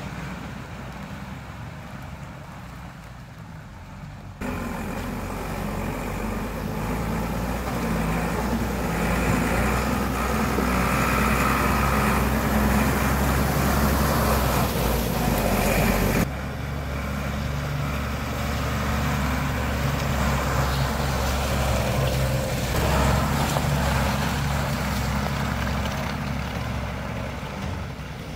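Vehicle engine running while driving slowly over rough, muddy off-road ground. The sound steps up abruptly about four seconds in, runs louder, and drops back abruptly near sixteen seconds.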